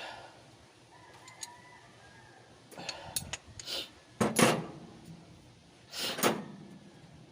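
A string of sharp knocks and clatters from hand work on an engine, the loudest about four and a half seconds in and another about six seconds in.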